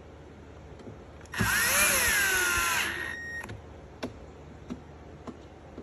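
Cordless drill-driver running for about a second and a half, its motor whine rising and then falling as it drives a screw into an amplifier's back panel, followed by a few light clicks.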